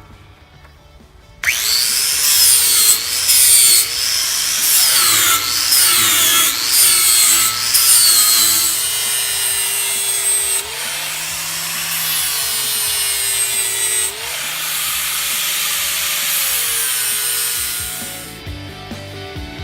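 Angle grinder with a 40-grit flap disc grinding down welds on steel, starting abruptly about a second and a half in. Its whine drops in pitch each time the disc is pressed into the metal and rises again as it eases off, then winds down near the end.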